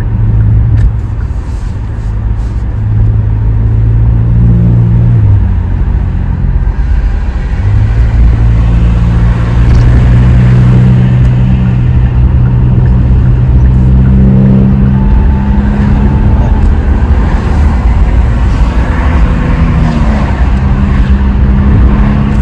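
Hyundai Tucson's engine and exhaust droning steadily under way; the engine's pitch drops about five seconds in, climbs back a couple of seconds later, and shifts again near the end.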